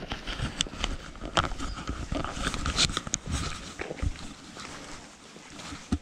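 Footsteps walking: irregular crunches and knocks that thin out and grow quieter in the last second or so.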